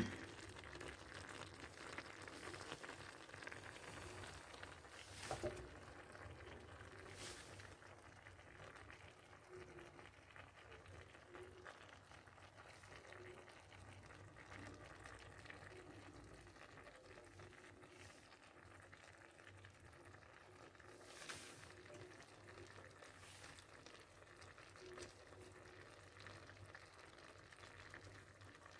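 Faint simmering of a clay tajine cooking over charcoal in the vegetables' own juices, with a few soft clicks.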